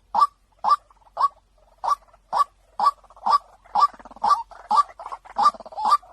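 White-breasted waterhen calls, a recorded mix used as a trapping lure: short, loud "kwak" notes repeated about twice a second, with a second, softer caller overlapping from about halfway through.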